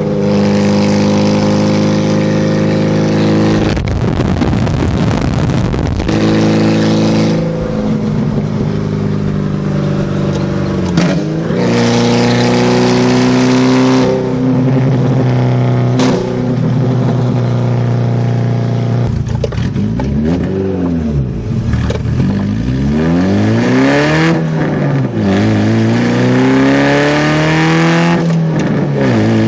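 Car engine running, its pitch steady at first, then rising and falling several times in the second half as it is revved up and let back down.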